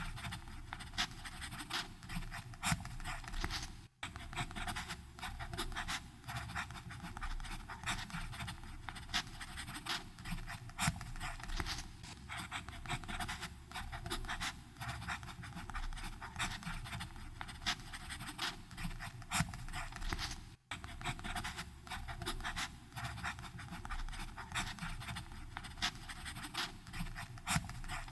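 Fountain pen writing on paper: a continuous run of fine scratchy nib strokes, with two very brief breaks, about 4 and 21 seconds in.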